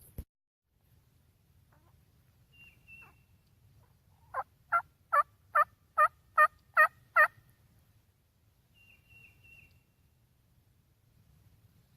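A run of eight turkey yelps, evenly spaced at about two and a half a second, the first couple softer than the rest.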